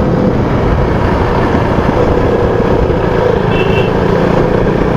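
KTM motorcycle engine running steadily while riding, mixed with road and wind noise. A short high beep sounds about three and a half seconds in.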